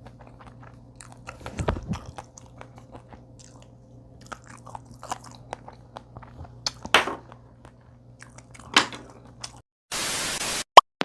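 Close-miked eating: scattered crunchy bites and chewing over a low steady hum. Near the end the chewing stops, followed by a sudden burst of hiss lasting about half a second and then a sharp click.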